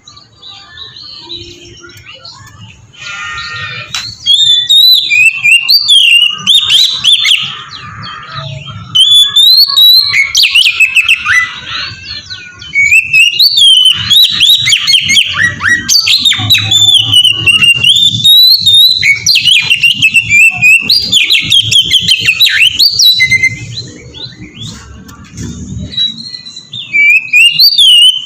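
Oriental magpie-robin (kacer) singing a long, varied song of loud whistles, slurred notes and rapid chirps. The song is quieter for the first few seconds and again briefly about three-quarters of the way through, and runs almost without a break in between.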